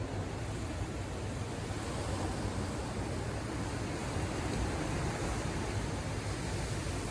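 Ocean surf breaking and washing ashore, a steady rushing noise with a deep low rumble; the hiss grows a little fuller about two seconds in.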